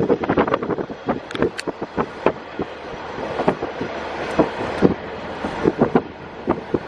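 Ride in a KiHa 48 diesel railcar with the window open: a steady rumble and rush of air, broken by many sharp, irregular knocks of the wheels over rail joints, slowly getting louder.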